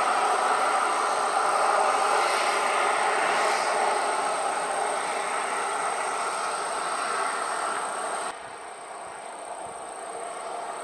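Jet airliner engines heard while the aircraft passes, a loud steady rush that slowly fades, then drops away suddenly about eight seconds in.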